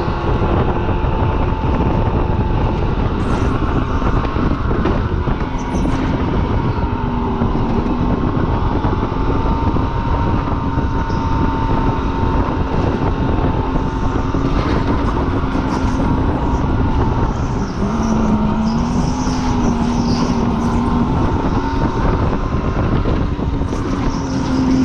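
Supercharged car's engine running hard at speed on a race track, heard from on board, over heavy road and wind noise. The engine tone moves up and down a few times with throttle and gear changes.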